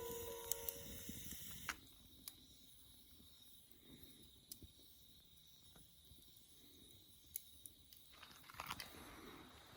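Faint crackling of a small wood campfire: a few sparse pops and snaps over a quiet hiss, with a small cluster near the end. Background music fades out in the first couple of seconds.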